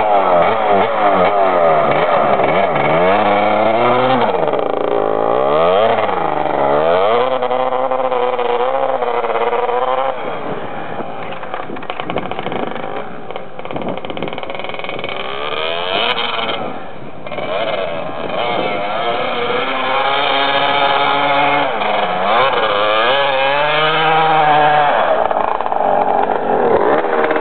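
Husqvarna 250 dirt bike engine revving up and down over and over as it is ridden through snow, falling off in the middle and growing louder again near the end as the bike turns and comes back.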